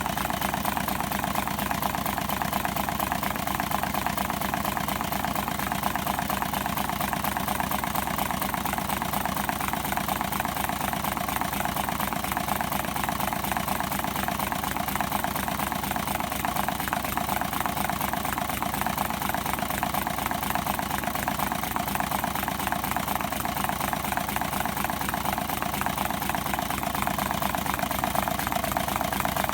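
Homemade water-cooled six-cylinder Stirling engine running steadily with a fast, even mechanical clatter.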